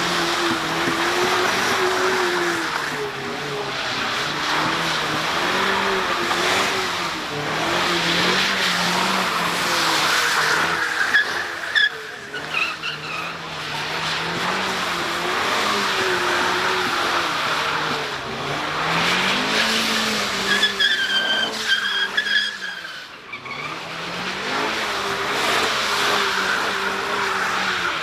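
A car drifting with its tyres screeching, its engine revving up and down again and again, and a sharp high-pitched tyre squeal about two-thirds of the way through.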